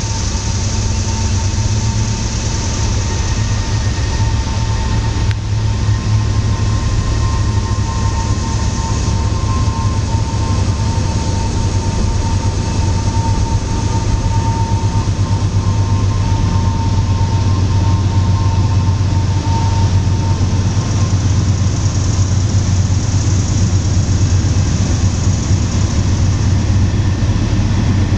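Norfolk Southern wood chip freight train rolling along the mountain grade: a loud, steady low rumble, with a faint thin whine that fades out about twenty seconds in.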